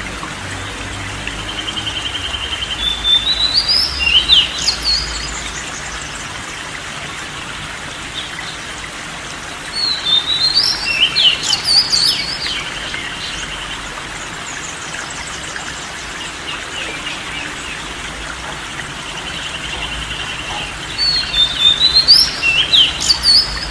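A songbird singing in repeated phrases of quick whistled notes, each with a fast even trill between them, about every nine seconds over a steady hiss.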